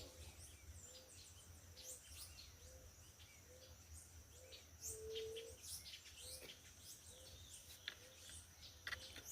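Faint outdoor bird chorus: many short high chirps from several birds. Under them, a short low call repeats about once a second, with a faint steady high tone throughout.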